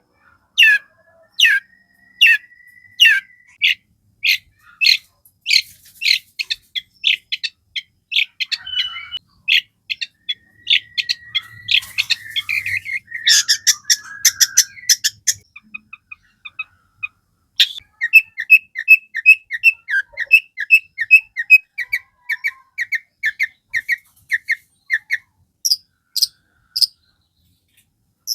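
Long-tailed shrike (cendet) in full chattering song. Sharp, downward-sweeping calls come about two a second, then quicken into rapid notes and a dense, harsh burst in the middle. After a short pause, a fast series of about four notes a second follows.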